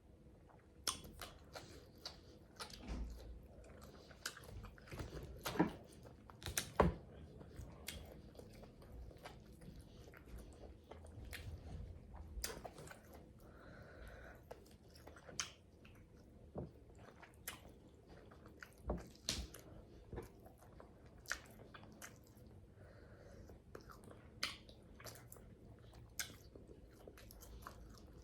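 A person chewing a meal of salmon and asparagus close to the microphone, with irregular wet smacks and clicks of the mouth. The loudest come a little after five seconds and again about seven seconds in.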